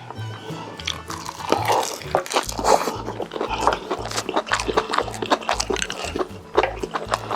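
Mukbang eating sounds: chewing and short crunches and clicks, over background music with a bass beat that settles into a steady pulse a couple of seconds in.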